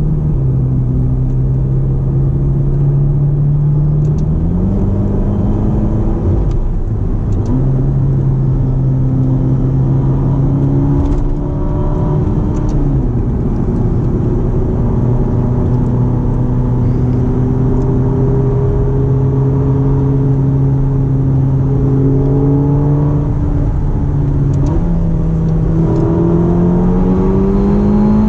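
Ferrari GTC4Lusso T's 3.9-litre twin-turbo V8 pulling the car up through the speeds under acceleration. Its note holds steady for long stretches, dropping in pitch twice and rising again several times, most sharply near the end.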